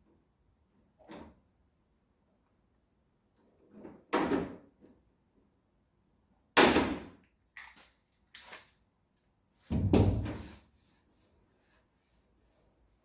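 A series of separate clunks and clatters, about four louder ones, each dying away within about a second, with a few fainter knocks between and quiet in the gaps.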